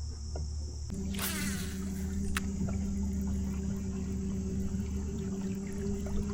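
Newport NK180HD electric trolling motor running on the kayak, a steady low hum starting about a second in, with a brief splash of water just after it and a single click a second later.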